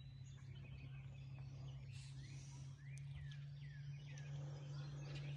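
Wild birds calling faintly, a row of short downward-sliding chirps through the middle, over a low steady hum.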